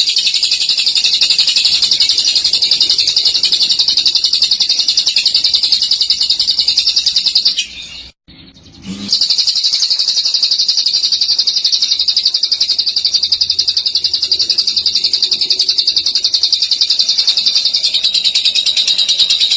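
Female lovebird singing a long ngekek: a continuous, rapid, high-pitched chattering trill. It breaks off once for about a second and a half near the middle, then carries on.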